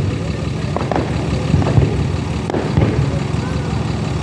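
Fireworks going off: a run of irregular bangs and thuds over a steady low rumble, with crowd voices in the background.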